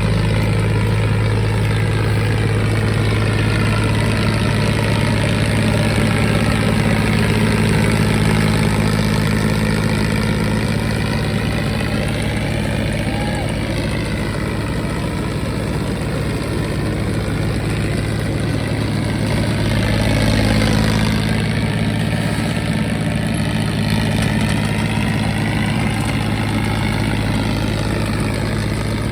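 John Deere 5039 tractor engine running steadily at a constant speed, a deep, even hum with no dips in revs.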